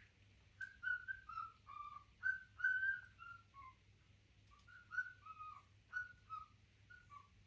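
Melodic whistling: two phrases of short, clear notes that step downward in pitch, with a brief pause between the phrases about four seconds in.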